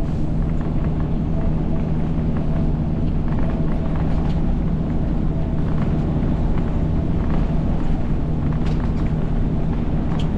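Semi-truck diesel engine and road noise heard inside the cab while driving, a steady low drone.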